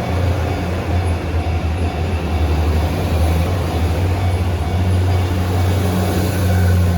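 Diesel engine sound of an HC85 hybrid express railcar running under power as the train pulls away, reproduced for an N gauge model train; a steady low hum.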